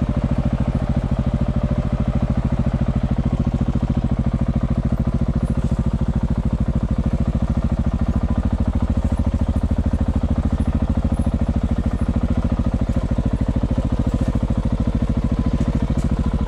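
Dirt bike engine running steadily at low revs, a fast even pulsing with no revving.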